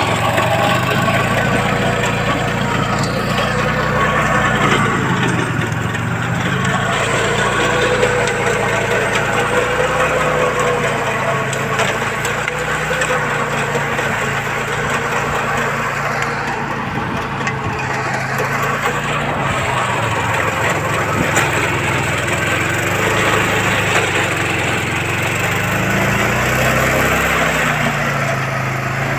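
Swaraj Code compact tractor's engine running under load while driving a rotavator, its pitch wavering up and down as the load changes. A rough, grainy churning from the working rotavator runs over the engine note.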